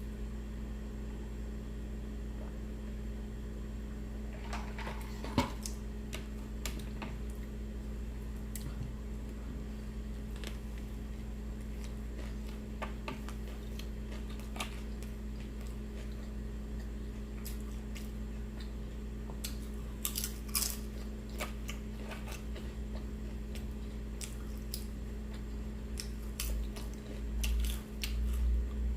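A person eating, chewing and biting food with many short, irregular mouth clicks, over a steady low electrical hum.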